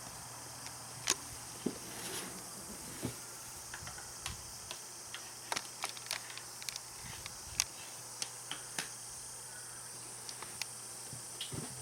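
Kittens playing with a basket and a cat teaser toy: irregular light clicks, taps and scratches of paws, claws and toy, over a steady hiss.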